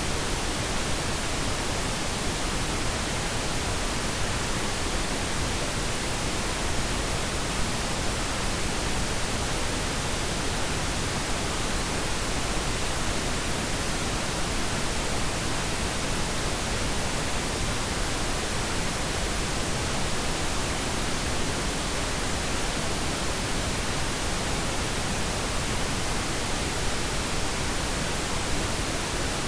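Steady synthetic pink noise: an even, unchanging hiss with no events or variation.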